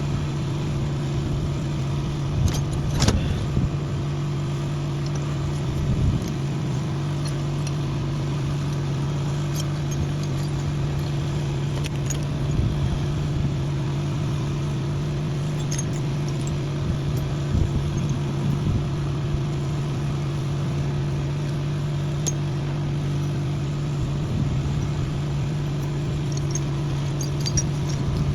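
An engine runs at a steady idle, with scattered metallic clinks and clicks over it, the loudest about three seconds in.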